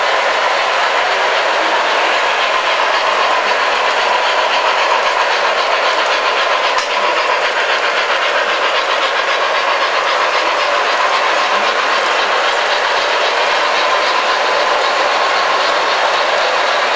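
O gauge model trains running on track: a steady, continuous whir and rattle of wheels and motors, with a faint steady hum throughout.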